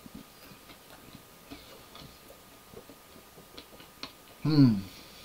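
Quiet chewing with small, scattered mouth clicks while eating hot chicken. About four and a half seconds in, a short, loud voiced sound from the eater, falling in pitch.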